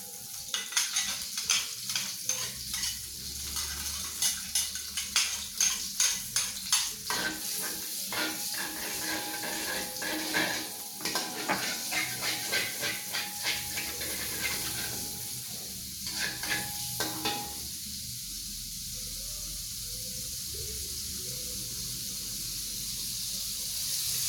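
Ground candlenut and turmeric paste sizzling in hot oil while a spatula scrapes and knocks against the pan in quick, irregular strokes. The stirring stops about two-thirds of the way through, leaving a steady sizzle.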